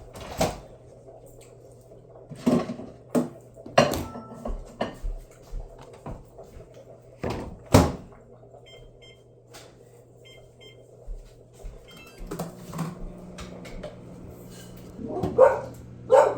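A microwave oven being loaded and set: knocks and clicks from the mug and door, and a run of short faint keypad beeps midway, over a steady low hum.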